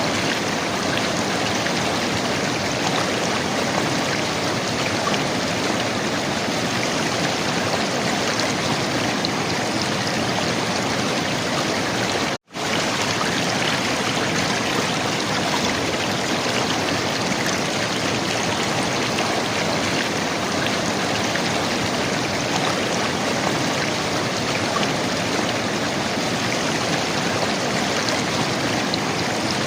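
River water flowing and gurgling in a steady, even rush. The sound cuts out completely for an instant about twelve seconds in, then carries on unchanged.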